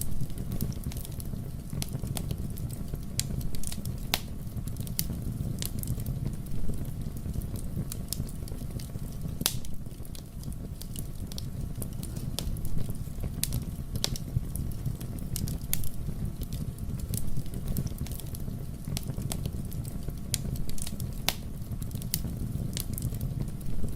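Wood fire burning in a fireplace: a steady low rumble of flames with sharp, irregular crackles and pops several times a second.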